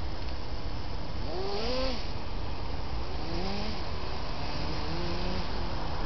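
Electric drive motors of a Kyosho Blizzard RC snow groomer whining in three short pitch arcs that rise and fall, about a second and a half, three seconds and five seconds in, over a steady low rumble.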